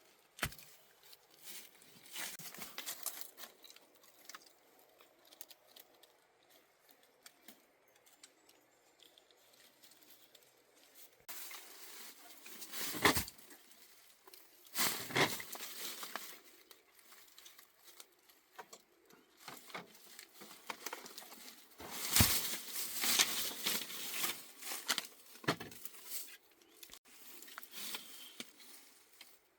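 Irregular rustling, crackling and tearing with a few sharp knocks, the sound of building materials such as leaves and bamboo being handled. It comes in busy spells with quieter gaps between them.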